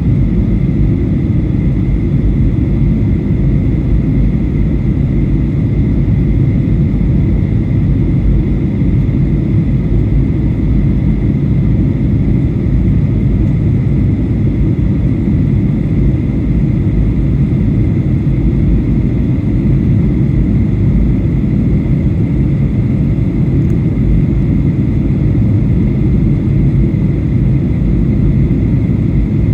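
Steady in-flight cabin noise of a Boeing 737-800 airliner: an even, loud rumble of engines and airflow, with a faint steady high tone.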